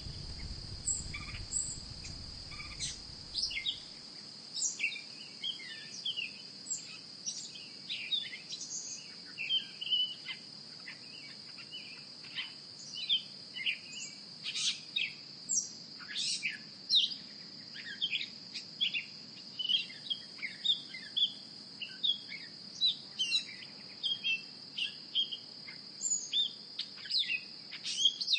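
Many short bird chirps over a steady, high insect drone. A low rumble stops about four seconds in.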